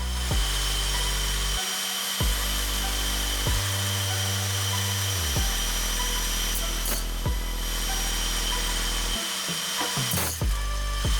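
Hand-held angle grinder running steadily with a high whine, under background music with a bass line that changes every second or two.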